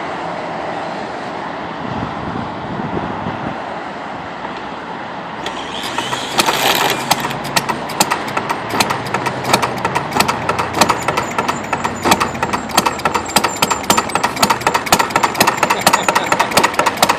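Homemade replica of Henry Ford's "Kitchen Sink" single-cylinder engine running with a rapid, even popping of sharp firing strokes, which sets in about six seconds in after a few seconds of steady noise.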